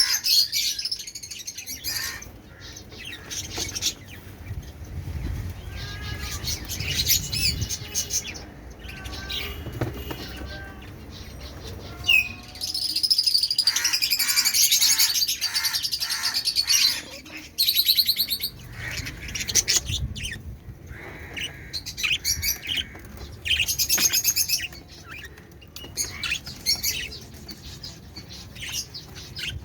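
Many caged pet birds chirping and chattering at once, calls overlapping, busiest for a few seconds around the middle.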